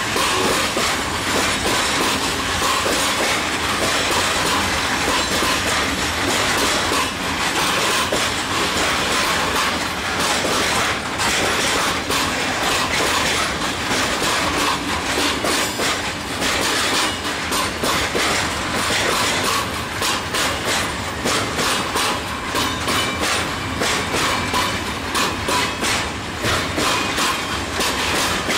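Freight train's flat wagons rolling past, their steel wheels clattering over the rail joints in a steady clickety-clack, with a faint steady squeal from the wheels.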